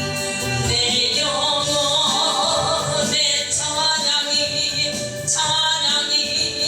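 A Christian song: singing with held notes over instrumental accompaniment.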